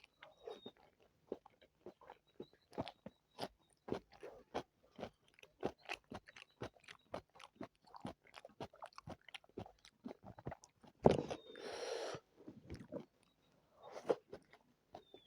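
Close-up eating sounds of a person chewing spicy chicken biryani and chicken legs: a steady run of small wet clicks and crunches. About eleven seconds in comes a louder, noisier sound lasting about a second and a half, and a shorter one near the end.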